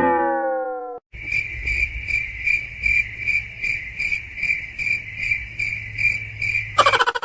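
Cricket chirping, a steady high chirp repeated about two to three times a second, after a falling whine that cuts off about a second in. Rapid clicking starts near the end.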